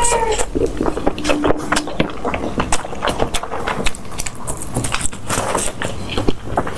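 Close-up eating sounds: a steady run of crunching, chewing and crackling clicks as food is bitten and chewed. A short vocal sound is heard right at the start and a brief hummed tone about a second in.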